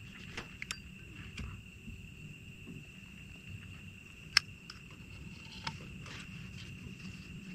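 Night insects singing in a steady high drone, with a low rumble beneath. Several soft clicks and knocks from handling gear, and one sharp click about four and a half seconds in.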